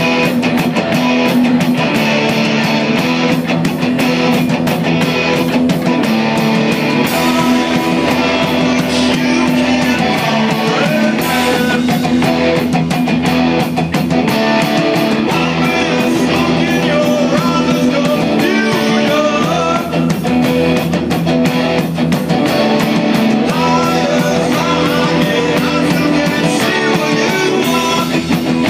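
A live metal band playing loud and without a break: electric guitars over a steady drum beat with regular cymbal hits.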